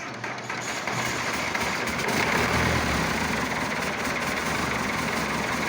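Massey Ferguson Super 90 diesel tractor engine running at a cold idle. It grows louder over the first couple of seconds, then runs steadily.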